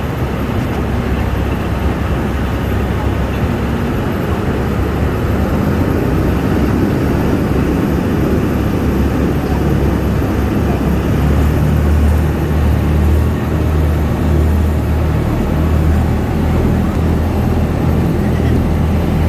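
Amphibious duck boat's engine running steadily while cruising on the river: a continuous low drone over a wash of wind and water noise, the drone growing somewhat stronger about halfway through.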